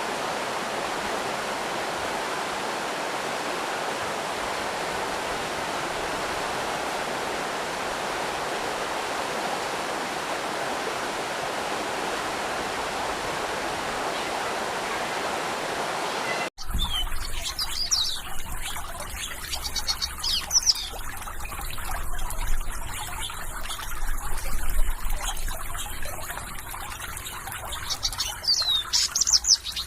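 Flowing water rushing steadily. About two-thirds of the way through it cuts abruptly to a trickling stream with birds chirping in short bursts.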